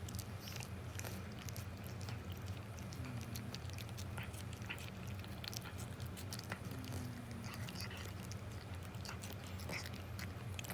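An old cat's mouth sounds, many small quick wet clicks of chewing and licking, over a steady low hum.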